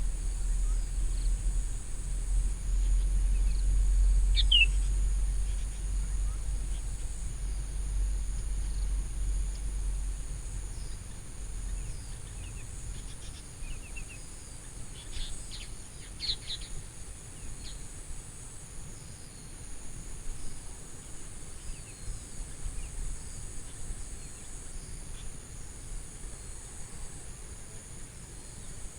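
Insects buzzing steadily at a high pitch, with a few bird chirps: a short falling chirp about four seconds in and a small cluster of calls around the middle. A low rumble sits underneath, loudest in the first ten seconds and fading after.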